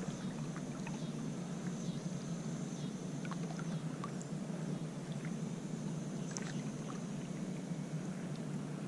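Water lapping and dripping around a kayak on calm water, with a steady low hum and scattered small ticks.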